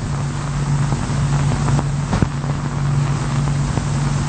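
Machinery running with a steady low hum and a few faint clicks.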